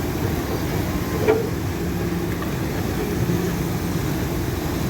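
Steady low rumble of a tour boat's engines idling at the dock, with one short knock about a second in.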